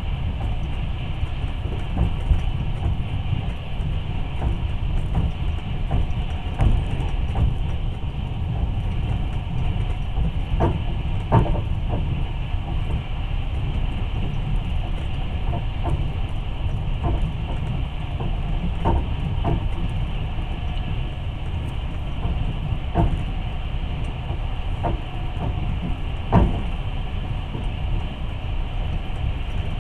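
Passenger train running on the rails, heard from aboard the carriage: a steady low rumble with a scattering of sharp knocks from the wheels over the track.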